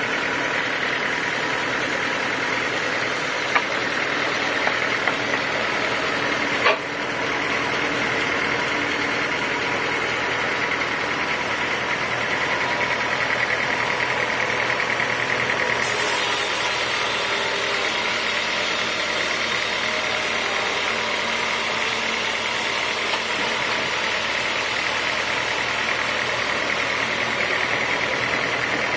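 Homemade sawmill machinery running steadily, a constant mechanical drone with a steady whine. A sharp click about seven seconds in, and a hiss added between about sixteen and twenty-three seconds.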